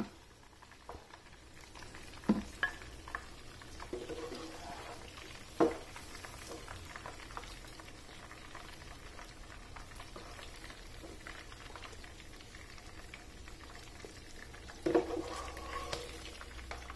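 Chicken chapli kababs sizzling in shallow oil in a frying pan, a low, steady hiss. A metal spatula knocks and scrapes a few times as the kababs are lifted out onto tissue, the loudest clatter coming near the end.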